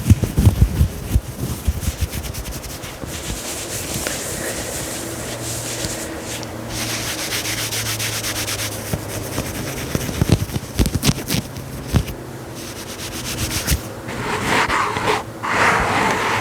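Fabric of a knit turtleneck being scratched and rubbed close to the microphone: a dense run of scratchy rubbing strokes, louder and fuller near the end.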